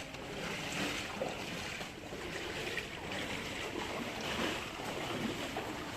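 Floodwater rushing and sloshing, a steady wash of water noise that swells and eases every second or so.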